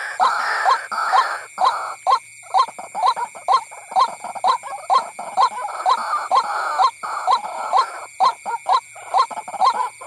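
White-breasted waterhen calling: rapid, evenly repeated croaking notes, several a second, with short breaks about two and seven seconds in.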